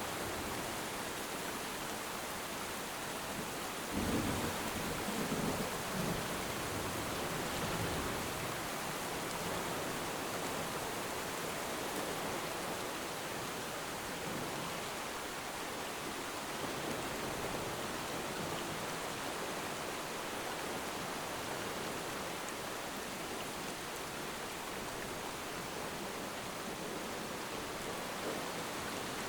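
Steady rain falling, with a low rumble of thunder about four seconds in that fades over a few seconds.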